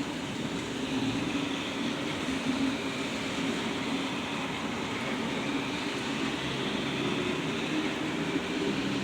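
Heavy rain falling steadily in a thunderstorm, an even rushing noise with a low rumble under it.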